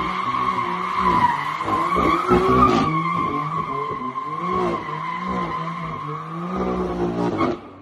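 BMW M4's twin-turbo straight-six with a performance exhaust, its revs rising and falling over and over while the tyres squeal steadily in a drift. The sound cuts off suddenly near the end.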